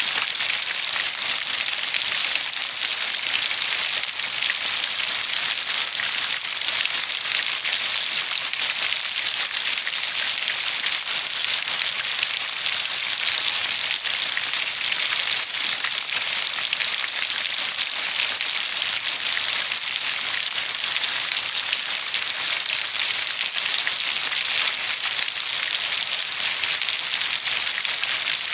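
Steady rainfall, a dense even hiss of drops pattering on a surface with no let-up.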